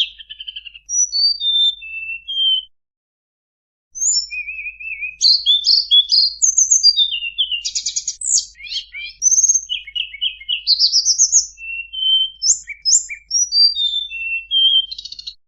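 Recorded song of the tledekan bambu, used as a lure call: a fast, varied run of high whistles, down-slurred chirps and short buzzy trills. It breaks off into a second of complete silence about three seconds in, then resumes.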